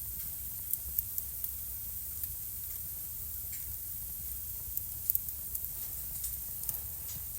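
Wood fire crackling in a fireplace: irregular sharp pops and snaps over a steady hiss of burning, with a low rumble underneath.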